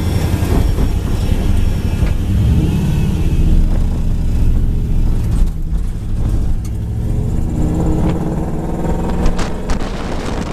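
Drift truck's Toyota 1UZ-FE V8 revving and accelerating, its pitch rising and falling several times. The engine is still cold, which the owner blames for it missing.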